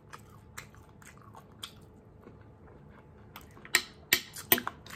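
Close-miked chewing of soft food, rice and stewed lamb, with faint wet mouth clicks and a few sharp, louder clicks about four seconds in.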